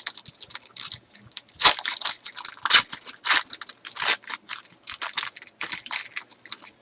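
Plastic wrapping and packaging of a sealed trading-card box crinkling and tearing as it is opened, in a rapid irregular run of crackles.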